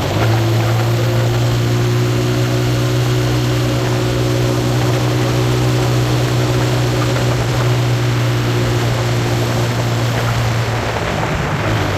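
A steady, low engine drone at one pitch with rushing noise over it; the pitch shifts abruptly right at the start and again near the end.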